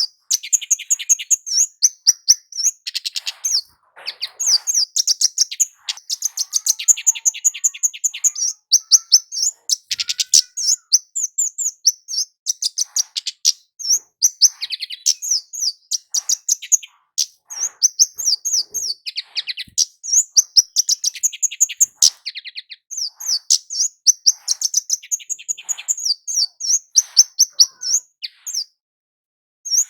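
A kemade jawa flowerpecker calling and singing in fast trains of sharp, high chips and twitters, one phrase after another with only brief breaks, including a short pause near the end.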